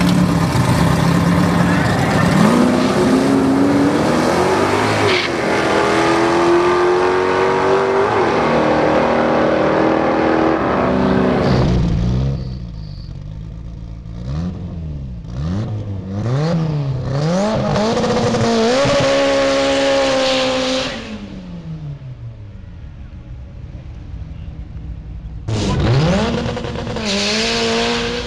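A car's engine held at high revs during a burnout, with a climbing pitch and dense tyre noise. It cuts off suddenly about twelve seconds in. Then a 1992 Mitsubishi Eclipse turbo AWD's engine is blipped up and down repeatedly at the start line, settles to a lower run, and near the end launches hard with its revs climbing.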